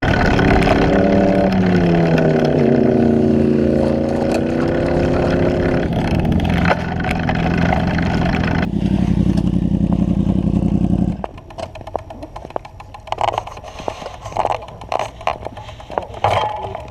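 Motorcycle engine revving up and down, then running steadily at high revs; about eleven seconds in it cuts off abruptly, followed by scattered scraping and clattering, typical of a bike going down in a crash.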